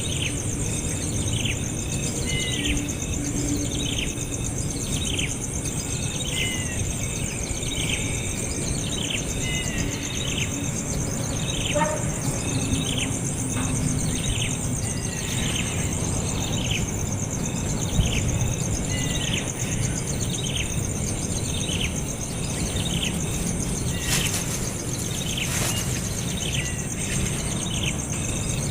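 A bird chirping over and over, a short falling chirp about once a second, over a steady high-pitched insect trill.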